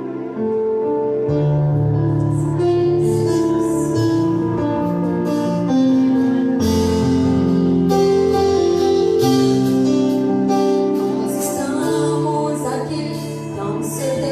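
Live gospel worship music: sustained chords with singing and cymbal strokes, the bass swelling in about a second in.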